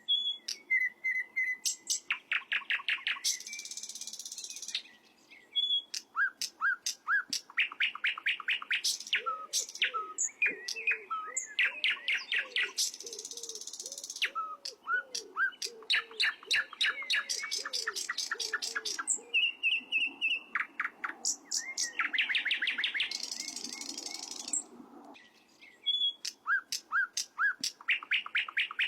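A songbird singing in repeated phrases: a fast run of sharp chirps ending in a harsh, hissing buzz about a second long, with a new phrase every few seconds.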